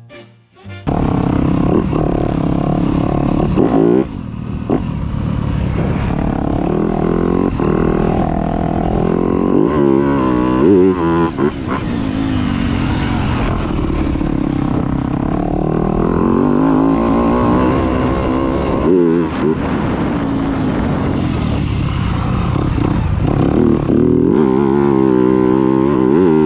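Yamaha YZ250F four-stroke single-cylinder motocross bike engine revving hard while being ridden, its pitch climbing and falling again and again as the throttle opens and closes and the gears change.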